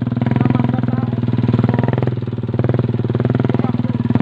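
Motorcycle engine running steadily, a loud low drone that eases off slightly about two seconds in.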